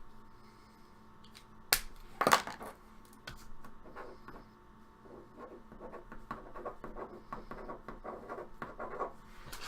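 Handling noise: two sharp knocks, then a run of light clicks and scratchy rustling.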